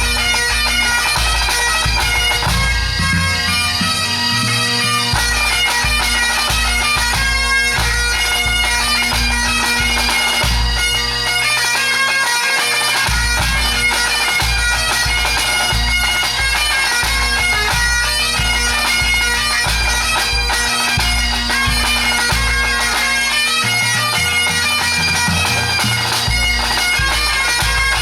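Pipe band playing: Great Highland bagpipes sounding a fast melody over their steady drones, with the drum corps beating underneath. The low drum beat drops out briefly a few times.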